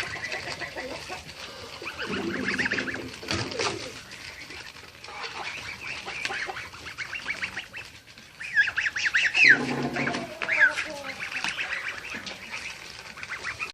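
A flock of domestic ducks and geese calling, with overlapping quacks and honks. The calling gets louder and busier between about 8 and 11 seconds in.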